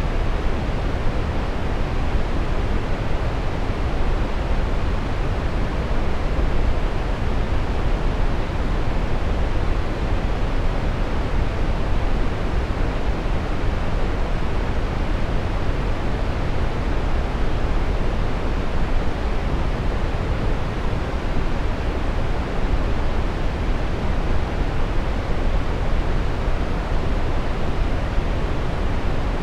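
Steady brown noise: an even, deep rushing hiss, strongest in the lows and falling away in the highs, with no change throughout.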